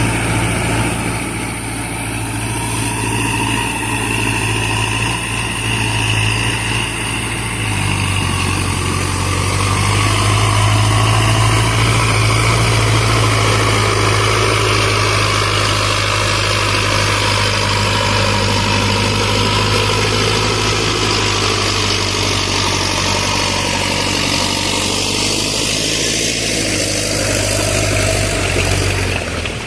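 Sonalika Tiger tractor's diesel engine running steadily at a low, even speed, its note shifting slightly about eight seconds in.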